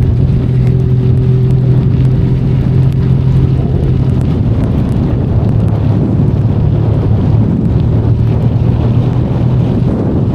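Benelli Leoncino 500 Trail's parallel-twin engine running at a steady cruising speed, its note holding nearly level, over a steady hiss of wind and rain.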